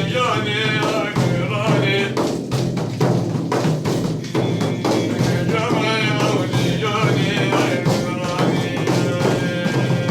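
A male voice singing a Sufi madh, a devotional praise song, accompanied by steady frame-drum and tambourine-like beats.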